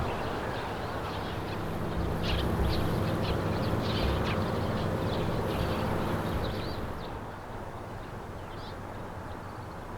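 Birds calling outdoors: a scattered series of short, high chirps over a steady background of outdoor noise.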